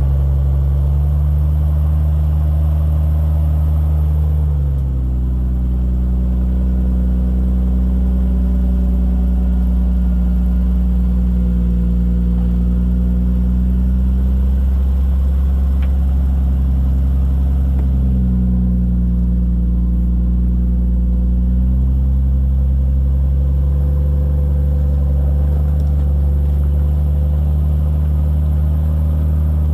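Engine of a Jeep Cherokee XJ rock crawler running steadily at low revs. Its speed drops and picks back up a couple of times.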